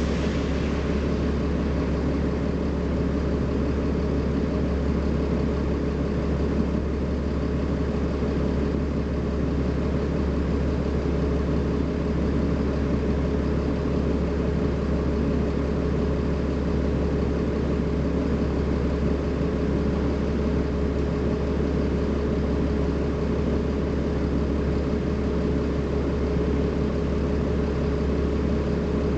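BMC Belde 220-SLF city bus's diesel engine running at a steady, unchanging speed, with a constant low rumble and a steady hum. A brief hiss fades out just at the start.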